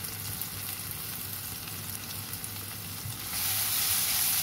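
Ground spice paste of shallots, garlic and coriander sizzling in hot oil in a wok, a steady hiss. The sizzle grows louder a little past three seconds in, as a spatula starts stirring the paste through the oil.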